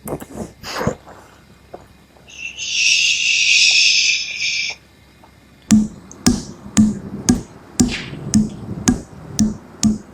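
A loud hiss lasting about two and a half seconds, then music with a steady thumping beat, about two beats a second, starting a little over halfway through.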